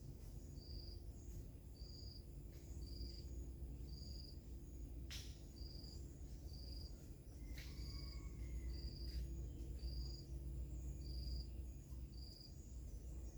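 Wind rumbling, stronger in the second half, under a cricket chirping at one high pitch about once every 0.7 seconds. Two sharp clicks come about five and seven and a half seconds in, the second followed by a faint falling whistle.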